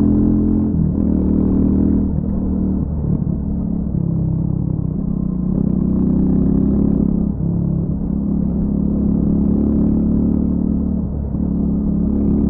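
Triumph Scrambler 400 X's single-cylinder engine through its stock exhaust, the throttle opened and eased off again and again so the revs rise and drop every couple of seconds.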